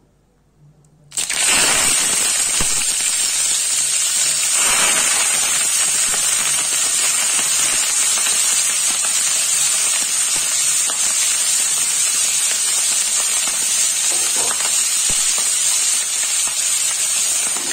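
Washed, still-wet cauliflower florets dropped into hot mustard oil in a kadhai: a sudden loud sizzle about a second in that keeps up steadily as they fry.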